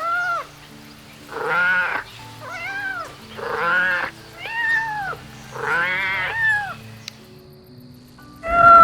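Kitten meows: about seven short, high calls, each rising then falling, some with a wavering pitch, over soft background music of sustained low notes.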